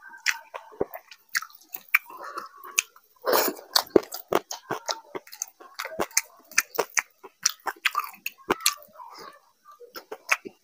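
Close-miked wet chewing and lip-smacking of a man eating rice and fish curry by hand: a dense, irregular run of smacks and clicks, many per second, with a louder mouthful about three seconds in.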